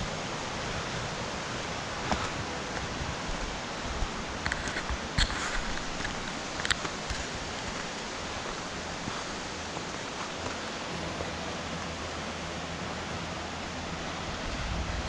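Steady, even rushing noise outdoors, with a few short crunches or knocks about two seconds in and again around five to seven seconds in.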